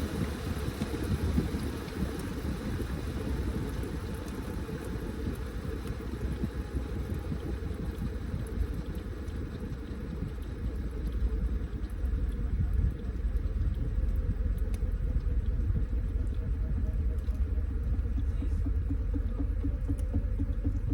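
Washing machine running a load of laundry: water sloshing as the tub churns the clothes, a steady low rumble that grows a little louder about two-thirds of the way through.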